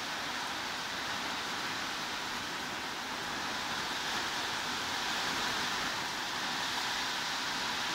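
Steady heavy rain falling, an even hiss with no separate drops or thunder standing out.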